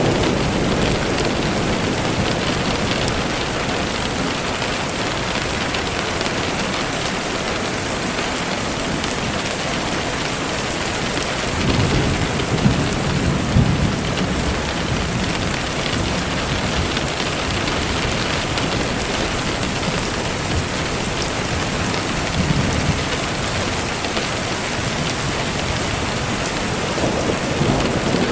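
Steady rain falling, with a low rumble of thunder building and fading about twelve seconds in and fainter rumbles near the start and end.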